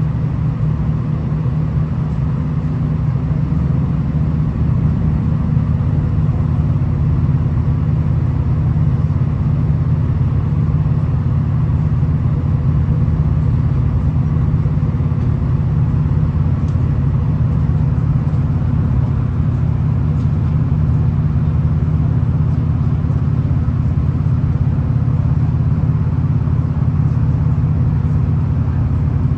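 V/Line VLocity diesel railcar in motion: a steady low rumble of engine and running gear that holds level throughout.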